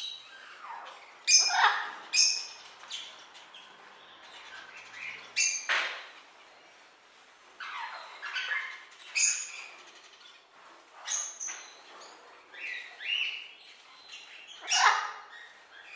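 Parrots calling: a string of short, harsh calls and chirps, about a dozen at irregular intervals, some in quick pairs.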